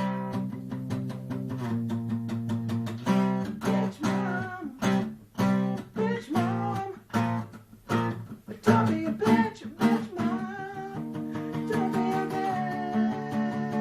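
Acoustic guitar strummed in steady chords, with a voice singing over it through the middle few seconds.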